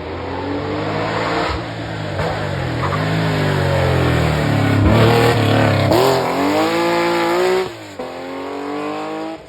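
Porsche rally car's engine being driven hard, its pitch climbing and dropping through repeated revs and gear changes as it grows louder. A little under two seconds before the end the engine note falls off abruptly as the driver lifts, then carries on at a steadier pitch.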